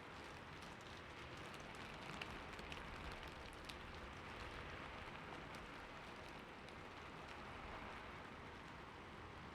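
Soft, steady rain falling in a city, a constant hiss with scattered small drop ticks.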